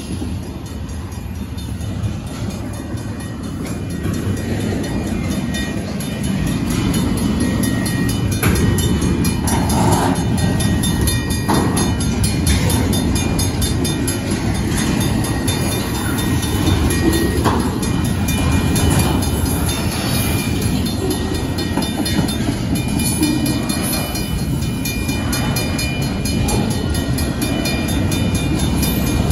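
Double-stack intermodal freight train rolling past: a steady low rumble of the well cars' wheels on the rails, growing louder about six seconds in, with a few sharp clanks.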